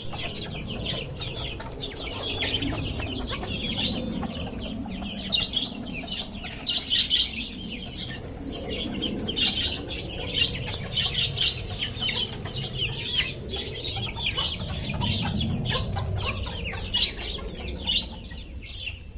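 Many birds calling at once: constant high chirping, with lower cooing underneath that swells twice.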